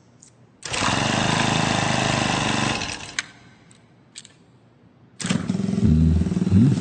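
Small motorcycle engine sounds: a loud burst of about two seconds, a few sharp clicks, then the engine running from about five seconds in, rising quickly in pitch twice near the end.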